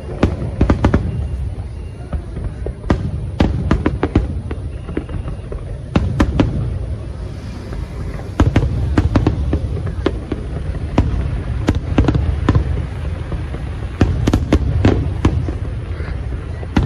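Fireworks display: bursting shells give many sharp bangs and crackles, irregular and closely spaced, over a steady low rumble.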